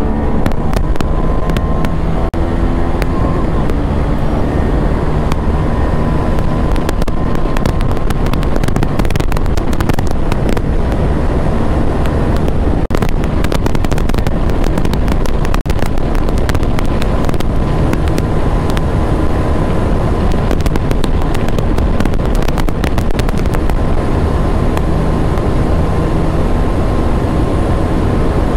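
KTM Duke 390 single-cylinder engine running hard and revving up and down through the gears at speed. Clusters of sharp exhaust pops and crackles come several times.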